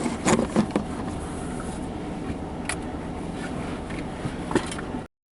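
Truck engine idling, heard from inside the cab as a steady low rumble, with a few sharp clicks; the sound cuts off suddenly near the end.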